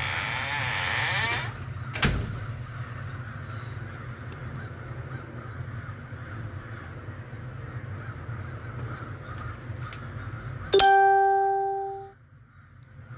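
Steady low hum with a harsh noisy sound at the start and a short knock about two seconds in. Near the end comes a single loud, ringing chime-like tone that sets in suddenly and fades away over about a second.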